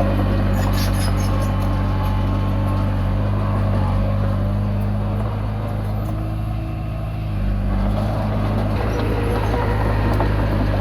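Komatsu D20P bulldozer's diesel engine running steadily under load, with some metallic clanking from the tracks. The engine note drops briefly about six seconds in and picks up again about two seconds later.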